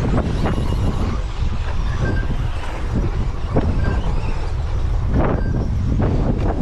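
Wind buffeting the microphone, with 1/10-scale RC trucks racing past in a few quick rising-and-falling sweeps and several short, high beeps.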